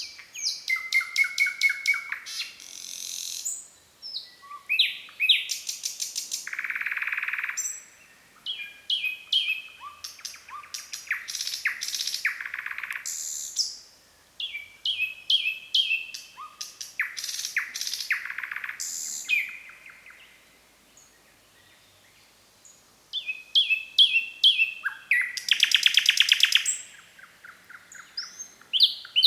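Nightingale singing: separate phrases of fast repeated notes and trills, with a pause of a few seconds a little past the middle.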